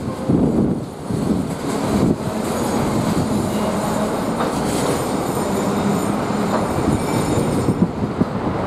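Loaded freight hopper wagons rolling past on a curve: a steady rumble of steel wheels on rail with a rhythmic clatter, and a faint high wheel squeal in the middle.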